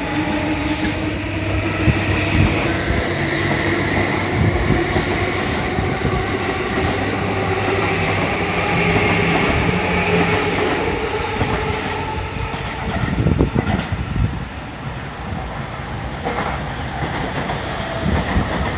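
E235 series electric commuter train pulling out of the station: steady wheel and rail noise with wheels clacking over rail joints, and a faint rising electric motor whine in the first few seconds as it gathers speed.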